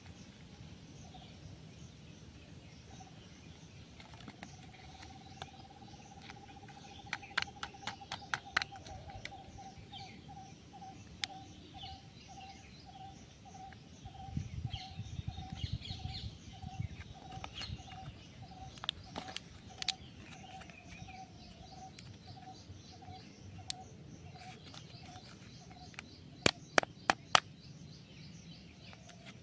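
Outdoor bird calls: one bird repeats a single note steadily, about one and a half times a second, over higher chirping. A few sharp clicks come through, loudest as a quick run of four near the end.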